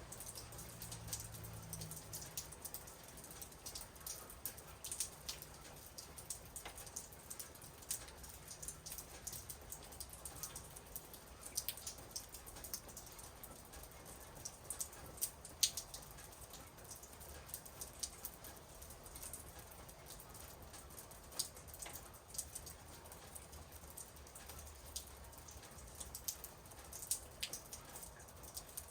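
Light rain falling, with scattered drops striking a surface as irregular sharp ticks.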